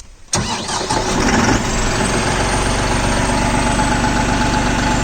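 New Holland 5620 TX Plus tractor's turbocharged common-rail (CRDI) diesel engine starting: it cranks and catches suddenly about a third of a second in, runs raggedly for about a second, then settles into a steady idle, in Eco Plus mode at about 1000 rpm.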